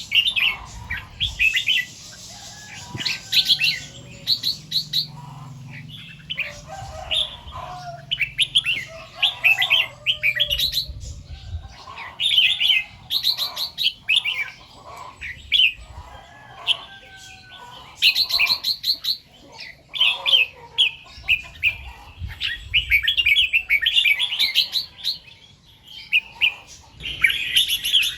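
Red-whiskered bulbul singing: bursts of short, rapid chirpy phrases repeated over and over with brief pauses between.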